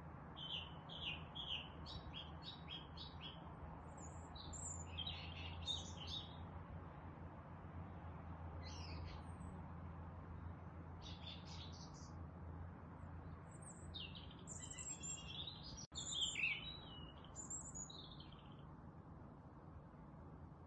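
Small songbirds chirping and trilling in scattered bursts of short high notes, over a steady low hum. The sound drops out for an instant about three quarters of the way through.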